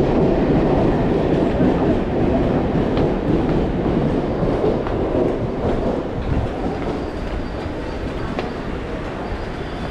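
A train running on the rails, its wheels clattering over the track in a steady rumble that is loudest at the start and eases off a little.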